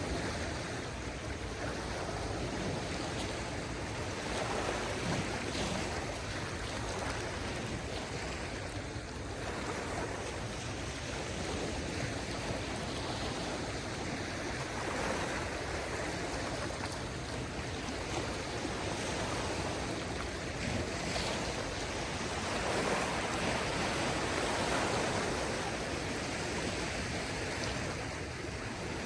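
Small waves on a calm sea washing onto the shore: a steady hiss of water that swells and fades gently every several seconds.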